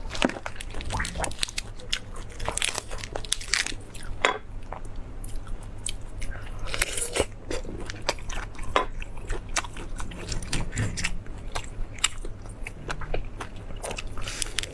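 Close-miked eating: a person biting and chewing meat, with irregular crunchy bites and mouth clicks.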